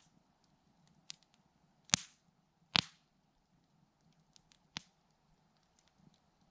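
Campfire crackling: scattered small ticks of burning wood, with two loud sharp pops about two and three seconds in and a smaller pop near the end.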